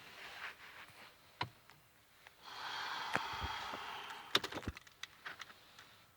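Scattered light clicks and a brief soft rustle from handling the controls inside a car that will not start; no starter or engine cranking is heard. The sharpest clicks come in a quick cluster a little past the middle.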